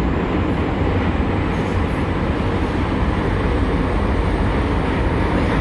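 Bucharest Metro train running between stations, heard from inside the carriage: a steady, loud rumble and rush of wheel and tunnel noise.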